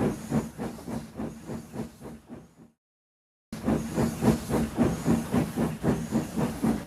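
Steam locomotive chuffing in a steady rhythm, about four hissing puffs a second. The puffs fade away, cut to silence for under a second, then start again.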